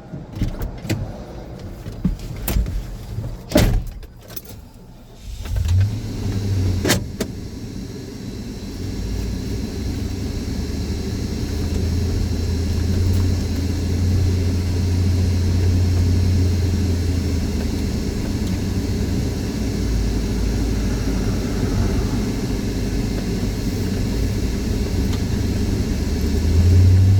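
A few knocks and clicks, then from about five seconds in a truck's engine and road noise run as a steady low rumble that grows louder as it drives on.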